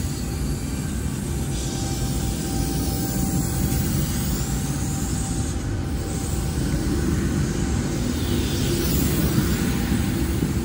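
Sydney double-deck electric train pulling out of the platform: a steady rumble of the cars rolling past, growing a little louder in the second half, with a faint thin whine for a few seconds early on.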